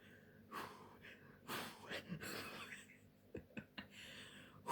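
A person taking several slow, deep breaths in and out to calm down, faint and breathy, with a few small clicks a little past the middle.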